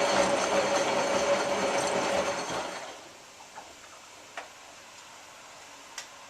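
Hotpoint 9534A washing machine turning its drum through the wash, the motor running with a steady whine over water and drum noise. It stops about three seconds in, leaving a few light clicks.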